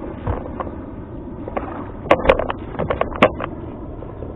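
A quick, irregular run of sharp clicks and knocks lasting about a second in the middle, over a steady background rush.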